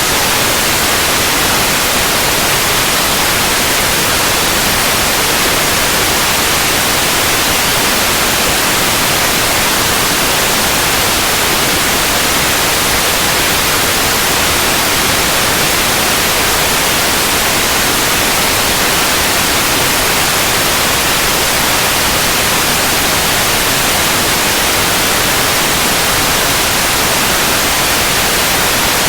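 Continuous synthetic white noise: a steady, even hiss, loud and unchanging, brightest in the high range.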